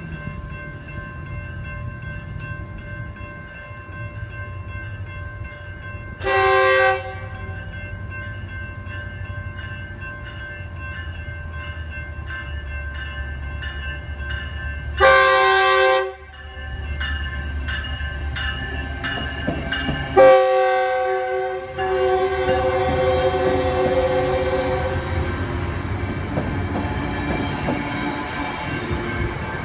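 Metrolink commuter train sounding its horn three times as it approaches: a short blast about six seconds in, then two longer blasts about fifteen and twenty seconds in. Its bilevel coaches then rumble past close by, the rumble growing louder near the end.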